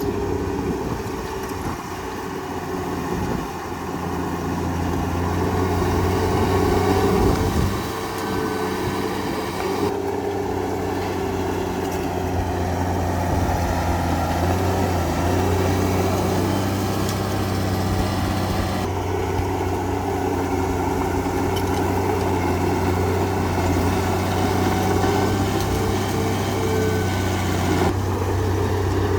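Heavy diesel engine of earthmoving machinery running steadily, rising in loudness for a few seconds early on and changing abruptly a few times.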